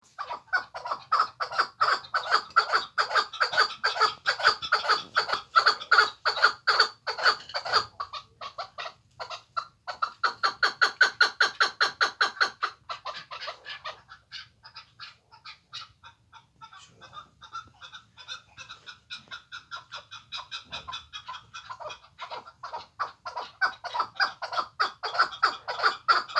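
Chukar partridge calling: a fast run of repeated clucking notes, several a second, in long bouts that grow fainter around the middle and loud again near the end.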